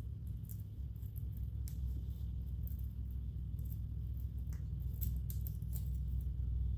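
Scattered light metallic clicks and scrapes of hand tools working on a transaxle's internal parts, as a snap ring is worked off, over a steady low hum.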